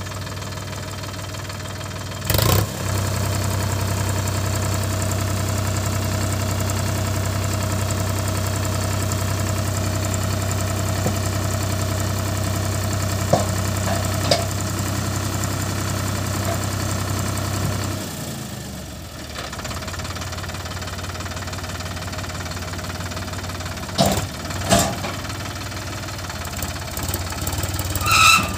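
Sonalika 50 RX tractor's diesel engine running steadily, then dropping to a lower, quieter run about two-thirds of the way through. A few short, loud clunks break in near the start, twice later on and just before the end.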